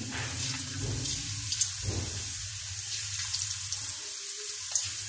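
Thin raw potato slices sizzling in hot cooking oil in a steel karahi, more slices being dropped in one by one: a steady hiss with scattered small pops and crackles, the slight moisture left on the slices spitting in the oil.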